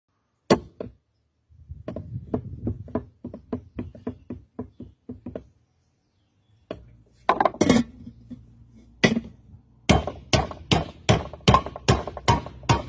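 Hammer striking metal: one sharp blow at the start, then a quick run of lighter taps, a pause, and heavier blows that settle into a steady rhythm of about three a second with a slight metallic ring.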